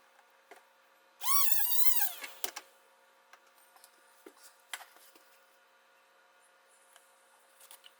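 A high-pitched, wavering squeak lasting about a second, followed by a few light clicks and taps.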